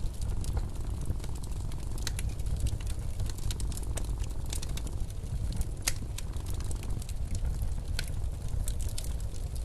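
Wood fire crackling in a fireplace, with scattered sharp pops, over the steady low rumble of blizzard wind.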